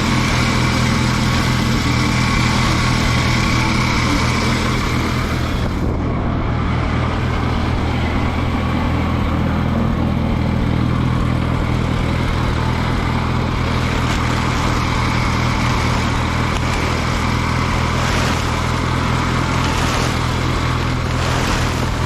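Allis-Chalmers G tractor's small four-cylinder Continental engine idling steadily.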